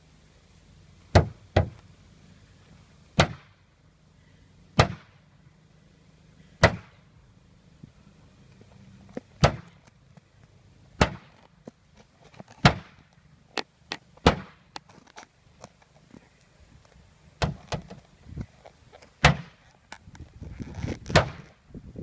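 Heavy hammer blows striking a junk refrigerator, with sharp impacts landing every one to three seconds, some in quick pairs, and a quicker flurry of hits near the end.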